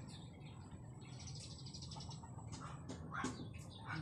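Small birds chirping in short, bright calls: a few about a second in, then a quicker run of calls in the last second and a half. A low rumble of wind sits underneath.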